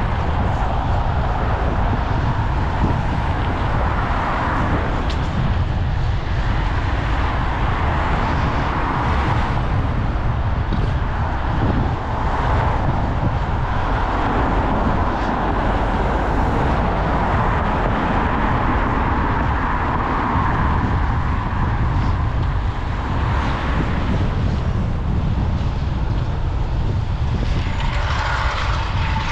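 Wind rumbling on an action camera's microphone during a bike ride, with road traffic passing, cars swelling and fading by every few seconds.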